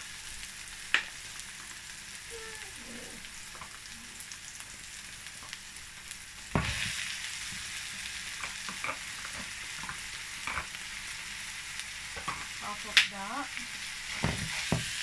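Diced onion and garlic sizzling in hot oil in a nonstick pan. About halfway through, a thump as raw minced beef drops in, and the sizzling is louder after it. A plastic spatula scrapes and taps as it stirs.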